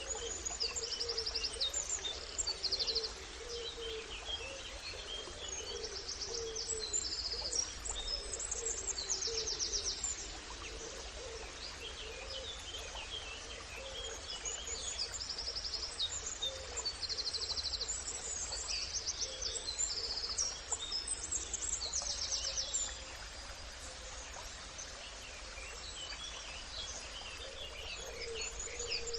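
Several birds calling and singing: short high buzzy trills repeated every second or so, scattered chirps, and a lower call repeating underneath, over a steady background hiss.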